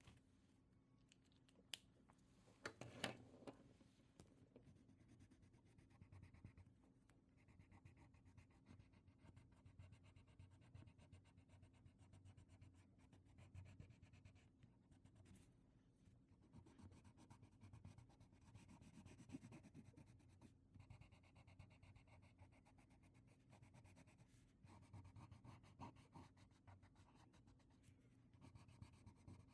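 Faint scratching of a drawing tool stroking across paper, with a sharp click about two seconds in and a louder brief knock about three seconds in.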